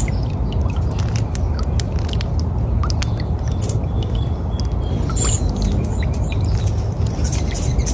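Birds chirping and squawking in many short, scattered calls over a steady low rumble.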